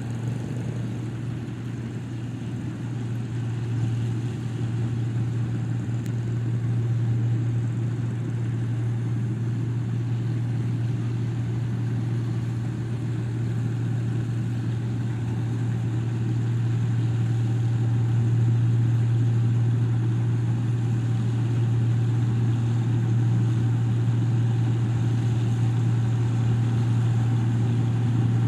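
Rice combine harvester's engine running steadily with a deep, even drone, growing slightly louder about two-thirds of the way through.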